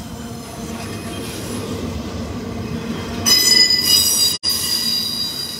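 Double-stack intermodal freight train's well cars rolling past close by, a steady rumble of wheels on the rails. A little past halfway, high-pitched wheel squeal sets in, several tones at once, and the sound cuts out for an instant shortly after.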